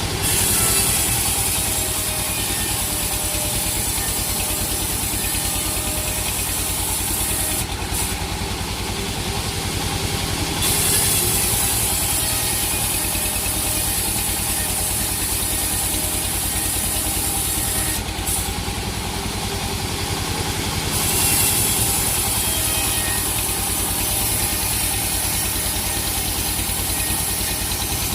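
Sawmill machinery with an engine running steadily, with a high hiss over it that stops twice for about three seconds.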